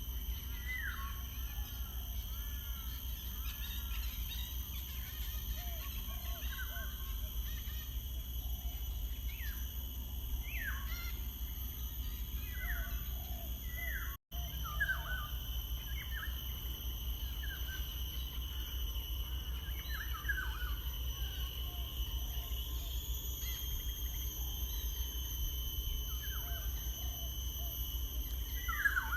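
Birds chirping in short, quick falling calls, several at a time, over a steady high-pitched insect drone and a low background rumble. The sound cuts out completely for an instant about halfway through.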